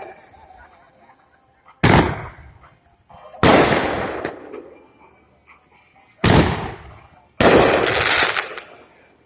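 Fireworks going off: four loud bangs, the last two close together, each trailing off over a second or so.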